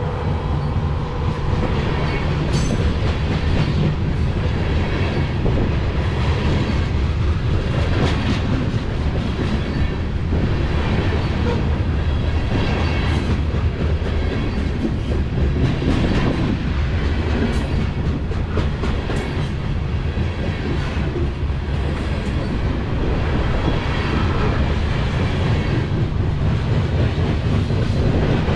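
Loaded freight train of covered grain hopper cars rolling past, a steady rumble with repeated wheel clicks over the rail joints.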